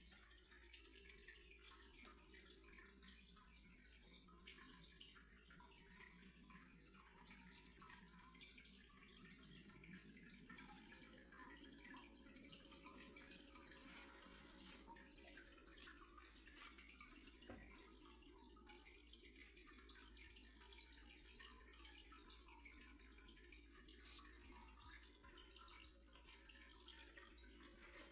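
Near silence: faint room tone with many small, scattered ticks.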